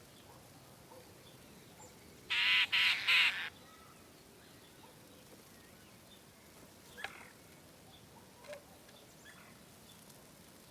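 A bird gives three loud, harsh calls in quick succession about two seconds in, followed later by a couple of faint short bird calls.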